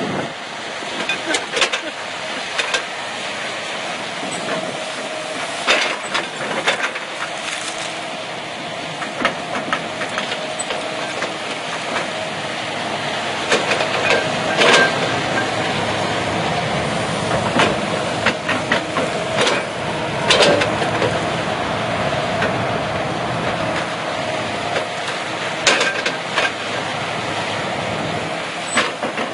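Heavy machinery working a tree stump: the engine runs steadily under a wavering hum, with many sharp cracks and knocks of wood, roots and metal scattered throughout.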